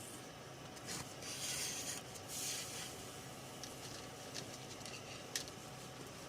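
Two short rubbing or scraping sounds about a second and a half in, then a few light clicks.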